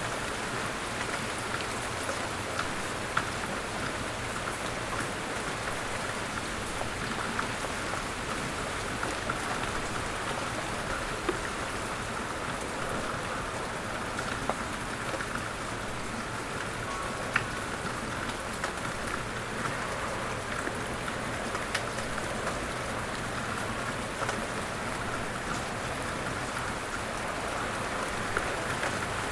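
Steady rain falling, an even hiss with scattered light ticks.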